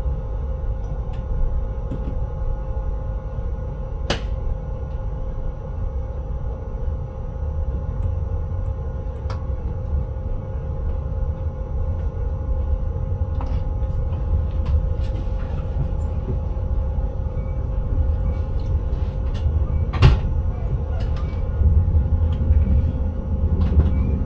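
Inside an electric train's driver's cab: a steady low rumble with a constant electrical hum. A few sharp clicks or knocks come through, a clear one about four seconds in and the loudest about twenty seconds in.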